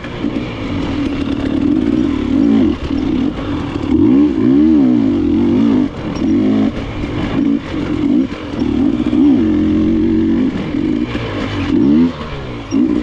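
KTM enduro dirt bike engine revving up and down over and over as the throttle is worked, with short drops in level when it is rolled off and some light clatter from the bike.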